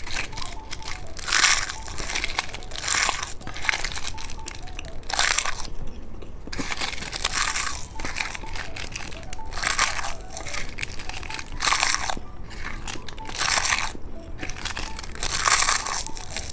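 Close-miked crisp crunching as someone bites and chews edible glutinous-rice-paper candy cups, a crunch every second or two.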